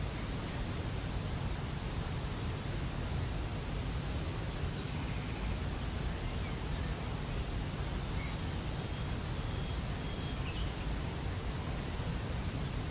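Waterfall's steady rush of falling water, with a bird's faint, high chirps repeating about twice a second over it.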